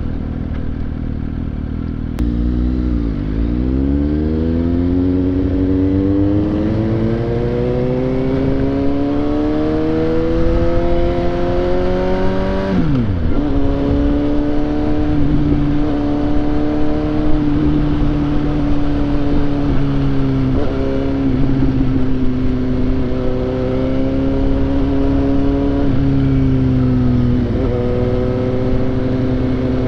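Suzuki GSX-S750's inline-four engine under way. Its pitch climbs steadily for about ten seconds as the bike accelerates. About halfway through it drops sharply at an upshift, then holds at fairly steady revs with small dips as the throttle is eased.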